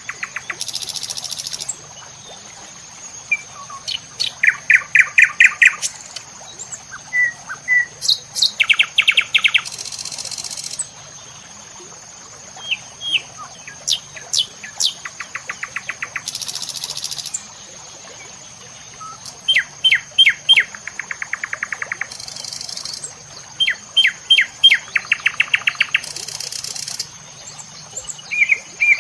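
A songbird singing the same phrase over and over, about every five seconds: a few quick downward-sweeping notes, then a rapid trill. Under it runs a steady high-pitched whine, with brief hissy bursts now and then.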